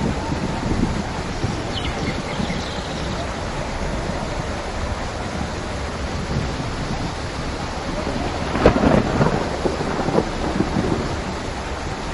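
Steady rain falling, with a rumble of thunder rolling in about two-thirds of the way through and lasting a couple of seconds.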